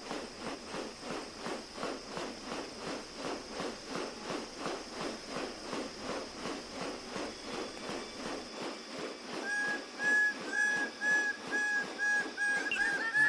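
A rhythmic harsh rasping, about two and a half strokes a second. Then, from about ten seconds in, a series of short, clear whistled bird notes at a steady pitch, about two a second. A steady high hiss runs under both.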